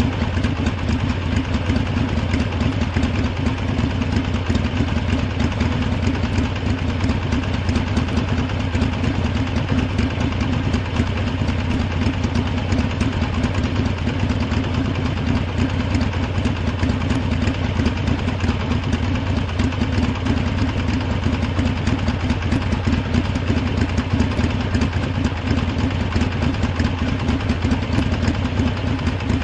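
Harley-Davidson motorcycle's V-twin engine idling steadily, its rhythm and pitch unchanged throughout.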